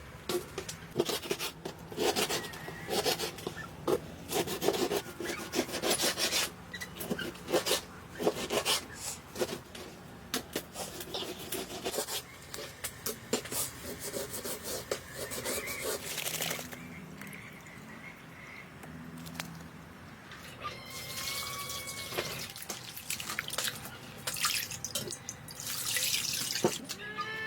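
Dripping and splashing water with rubbing and clattering handling noises, busy for about the first sixteen seconds, then quieter. Short bird chirps come in over the second half.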